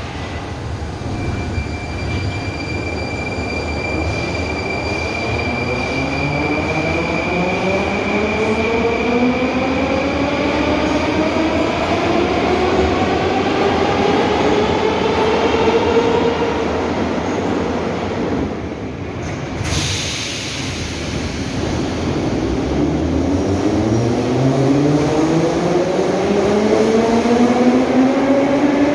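Metro train's traction motors whining as it accelerates, the whine rising steadily in pitch, breaking off briefly, then rising again over the rumble of the wheels on the rails. A thin steady high tone runs through the first few seconds.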